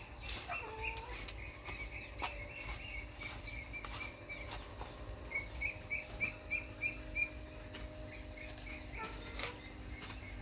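A small bird chirping in quick runs of short high chirps, about four or five a second. Underneath are scattered soft clicks and squelches from hands mixing seasoned pork in a plastic plate.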